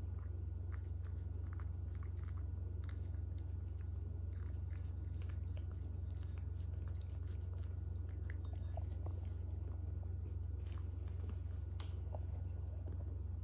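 A cat crunching and chewing freeze-dried chicken tenderloin: many short, irregular crunches and clicks, over a steady low hum.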